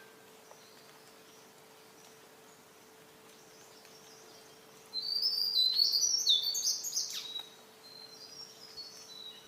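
A songbird singing: about five seconds in comes a loud, rapid run of high twittering notes lasting two to three seconds, followed by softer, scattered high notes that trail off. Before the song there is only a faint steady hum.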